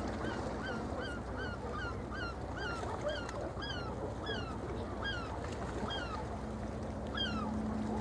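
A bird calling over and over, each call a short note that rises then falls. The calls come about three a second at first and grow slower and more spaced out, over a steady low rumble.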